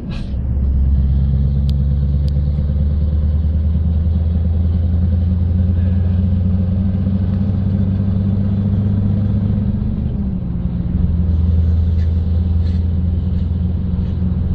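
Scania R580's 16-litre V8 diesel engine running as the truck drives, a steady low drone. Its pitch drops just after the start and rises again around ten seconds in, after a brief dip in loudness.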